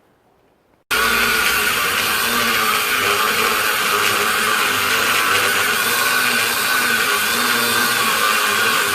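Power tool cutting through a piece of steel, most likely an angle grinder's cut-off disc, starting abruptly about a second in and then running steadily at an even pitch.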